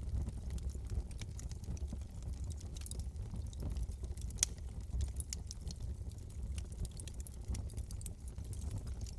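Wood fire crackling in a fireplace: irregular sharp pops and snaps over a low, steady rumble of the flames, with one louder pop near the middle.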